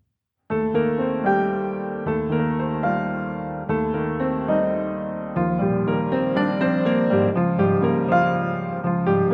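Background piano music, starting about half a second in after silence.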